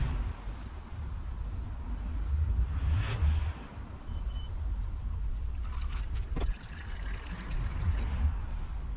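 Engine oil pouring out of a BMW E46 M3's open sump drain into a pan, over a steady low rumble, with a couple of sharp knocks about six seconds in.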